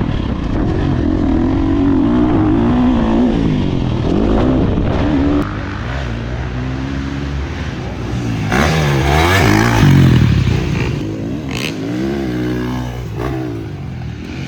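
KTM 350 four-stroke motocross bike engine revving hard, its pitch climbing and dropping repeatedly as the rider accelerates, shifts and backs off around the track.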